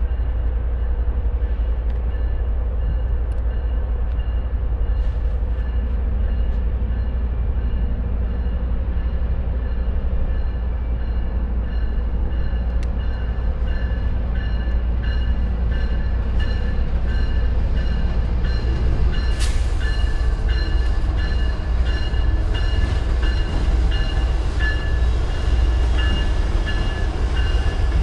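Passenger train moving at the station: a steady low rumble with thin high tones and occasional clicks of the wheels, growing somewhat louder in the second half.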